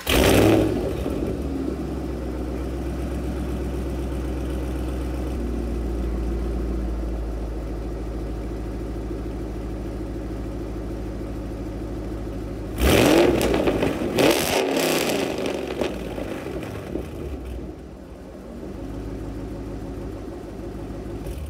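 Ford Mustang Bullitt's 4.6-litre three-valve V8, breathing through long-tube headers, an off-road H-pipe and FR500S axle-back mufflers, starts up and settles into a steady idle. About thirteen seconds in it is revved twice, sharply, then drops back to idle.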